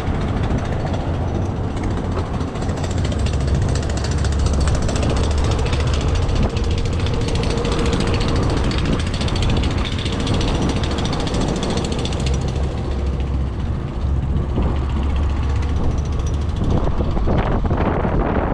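Steady road noise from a moving bicycle in traffic, with a deep rumble of wind on the microphone and passing vehicles.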